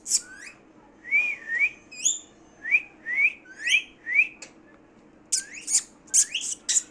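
Green parrot whistling a run of short, rising chirps, then a quicker series of sharper, higher chirps in the last couple of seconds.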